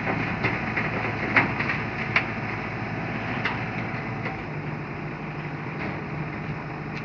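Steady mechanical hum with a few sharp knocks or clicks, the loudest about a second and a half in and again a little after two seconds.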